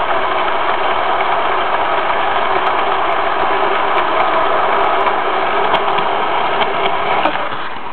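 HO scale model locomotive running around the layout track: a steady motor hum and wheel rumble with small clicks, easing off near the end.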